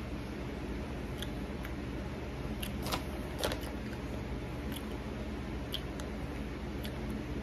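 Caramel popcorn being chewed with the mouth closed: a few crisp crunches and small clicks, the two loudest about three seconds in, over a steady low room hum.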